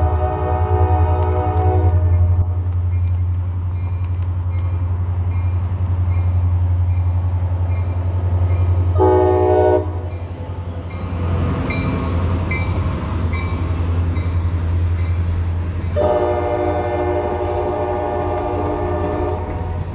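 CSX diesel freight locomotive sounding its horn over a steady low engine rumble: a long blast that ends about two seconds in, a short blast about nine seconds in, and another long blast from about sixteen seconds. Between the blasts the wheels of the passing open-top hopper cars click over the rail joints.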